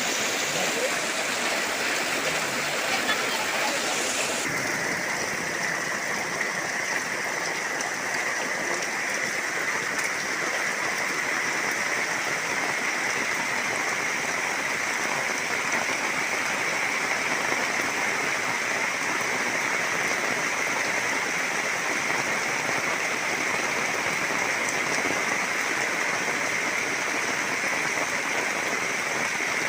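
Heavy rain falling steadily, an even hiss of downpour whose tone shifts abruptly about four seconds in.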